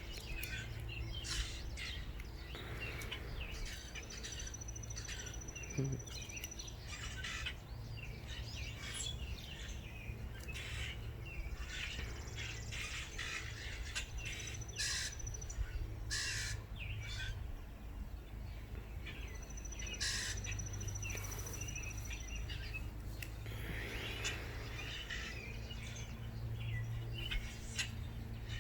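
Wild birds around backyard feeders chirping and calling, many short calls scattered throughout with a few high thin trills, over a steady low rumble.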